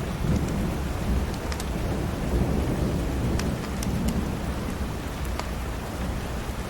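Steady rain with a deep low rumble beneath it, and scattered small sharp crackles or pops over the top.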